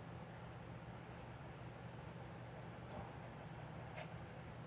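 Steady, high-pitched insect chorus of crickets or similar singing insects, running without a break, with a faint low hum beneath.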